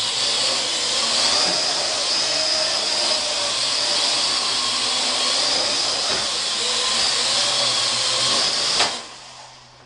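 Parrot AR.Drone quadcopter's electric motors and propellers running steadily in flight, their whine wavering slightly in pitch. Near the end there is a sharp click and the motors stop suddenly.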